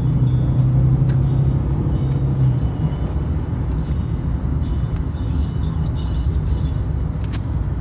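Inside the cabin of a Mercedes ML350 BlueTEC, its 3.0-litre V6 turbodiesel drones steadily under tyre and road rumble at Autobahn speed. About two and a half seconds in the engine's steady hum fades away, leaving mostly road and wind rumble.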